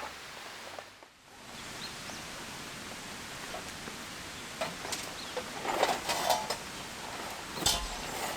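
Steady hiss of rain falling, with a few scattered clicks and rustles of something being handled and a thump near the end.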